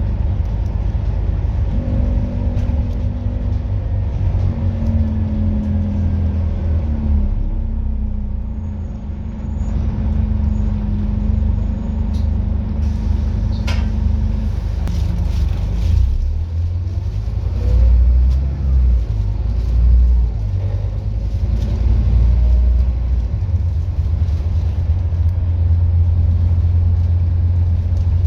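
Scania N230UD double-decker bus's diesel engine running under way with a strong low rumble and a whine in the first half, the engine surging in the second half as it pulls. A single sharp click about halfway through.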